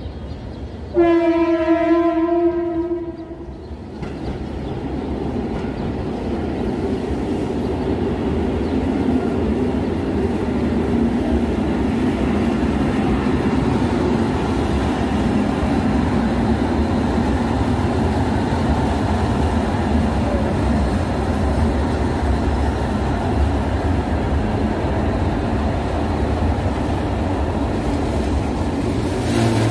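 Passenger train sounding one long horn blast about a second in, then its coaches rolling past close by with a steady rumble of wheels on the rails.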